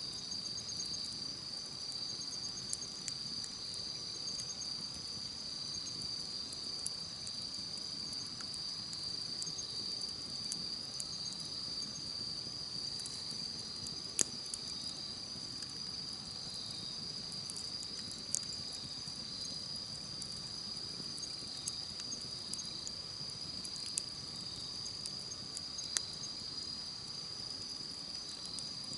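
A steady, high-pitched chorus of insects, with scattered sharp crackles and pops from a wood fire. A few pops stand out, about halfway through and again later on.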